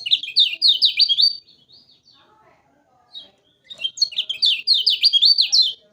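Kecial kuning songbird singing two bursts of rapid, repeated down-slurred chirps, about six notes a second, with a short pause and a single call between them.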